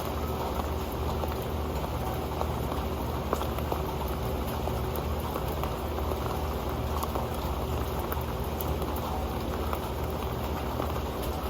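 Steady rain falling onto an old pan: a continuous hiss of rainfall with many scattered individual drop ticks.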